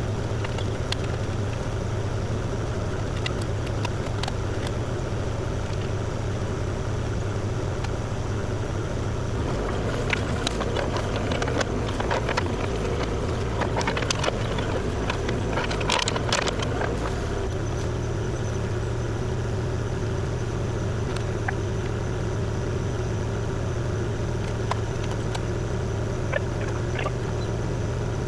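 Kubota KX040 compact excavator's diesel engine running steadily, with a cluster of sharp knocks and clicks between about ten and seventeen seconds in.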